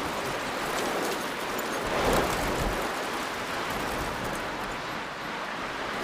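Storm noise: wind and rain rushing steadily, swelling briefly about two seconds in.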